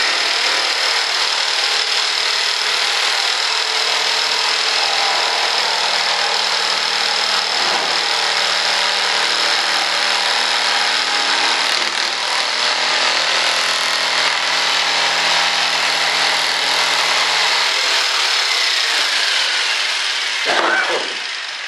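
Electric power saw running steadily and cutting for about twenty seconds, then switched off and spinning down near the end.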